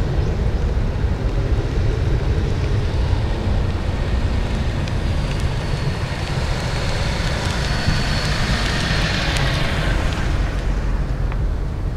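Boeing 737-800's CFM56 turbofan engines, a high whine with a jet hiss that swells from about halfway through and fades near the end as the airliner passes, over steady wind rumble on the microphone.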